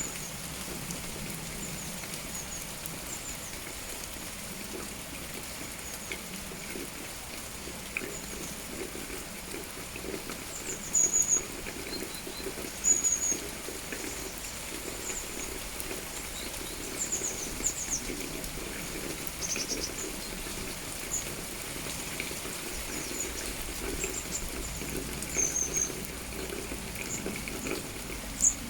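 Small songbirds giving short, very high-pitched chirps, scattered and repeated, over a steady patter of light rain.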